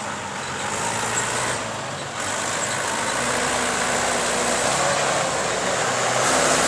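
Heavy diesel machinery running steadily, its engine growing gradually louder.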